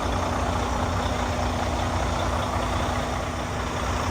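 Heavy truck's diesel engine running steadily, a constant low rumble with a steady hum.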